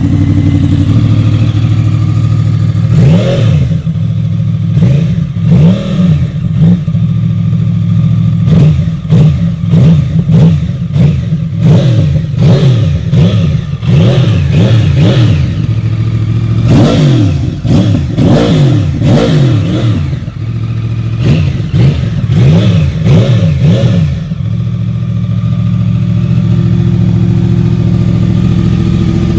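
Yamaha R1 RN22 crossplane inline-four with a full Akrapovic exhaust idling just after starting, then revved in many quick blips from about three seconds in to near the end, before settling back to a steady idle.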